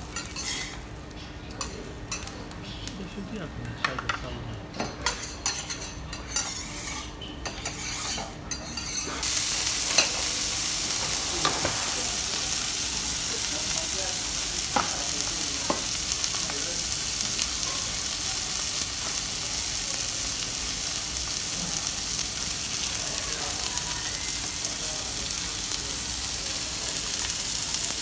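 Steel spatulas scraping and tapping on a teppanyaki iron griddle. About nine seconds in, a loud steady sizzle starts as meat fries on the hot plate, with a few spatula clicks over it.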